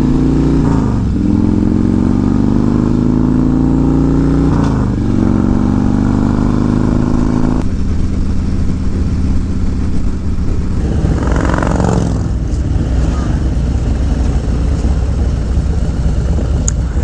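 Motorcycle engine accelerating through the gears: its pitch climbs and drops sharply at upshifts about a second and about five seconds in. It then settles to a steadier, lower run about eight seconds in, with a brief rush of noise about eleven seconds in.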